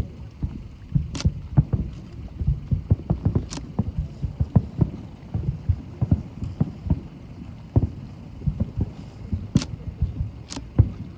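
Fireworks display with aerial shells bursting in quick, irregular succession: a dense run of low booms with four sharper cracks among them.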